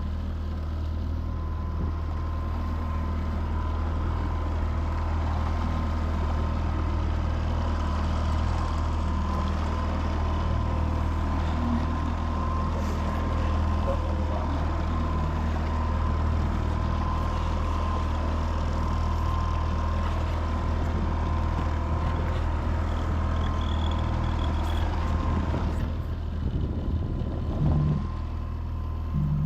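Boat's outboard motor running steadily, a constant low drone with a steady hum on top; the sound changes and drops a little about 26 seconds in.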